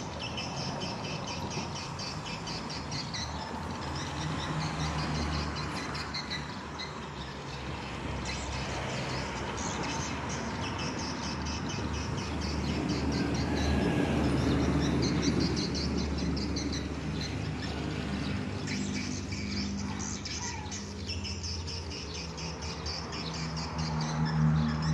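A flock of swiftlets twittering, with dense, rapid high chirps and clicks overlapping throughout. A low steady hum runs underneath and grows louder around the middle and again near the end.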